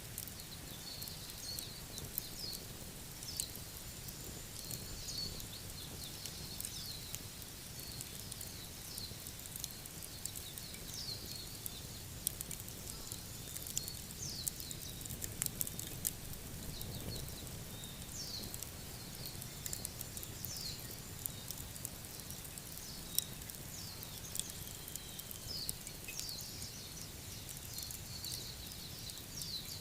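Fire crackling with scattered sharp pops over a low steady rumble, while short high chirps that sweep downward in pitch repeat about once or twice a second.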